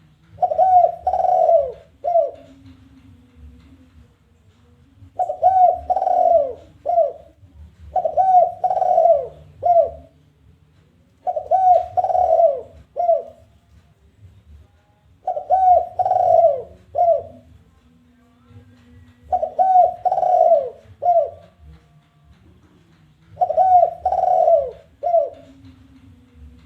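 Spotted dove cooing its challenging call. It repeats a phrase of three or four low coos, the last one short and set apart, about every four seconds, seven times.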